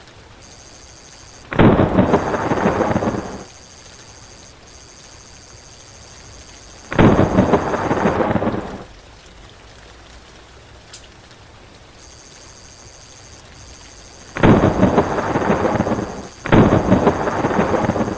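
Four loud claps of thunder, each lasting about two seconds and starting suddenly, over a steady patter of rain.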